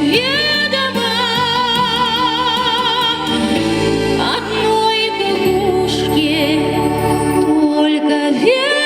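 A woman singing a song with long held notes and wide vibrato over instrumental accompaniment with a steady bass.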